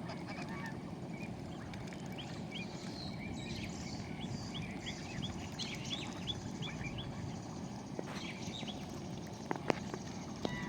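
Birds chirping outdoors: many quick, high, rising calls, thickest in the middle, over a steady low background rumble. A couple of sharp clicks come near the end.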